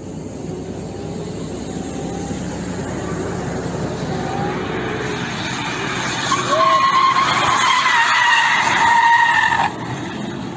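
A road vehicle running, then a loud high squeal of skidding that starts about six seconds in and stops abruptly near the end.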